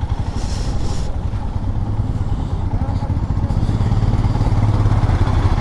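Motorcycle engine running as the bike is ridden, a steady low note with a rapid pulse, growing gradually louder.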